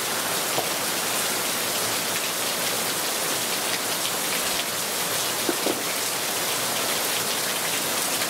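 Steady rain falling on grass, bushes and rocks: an even hiss with single drops landing here and there.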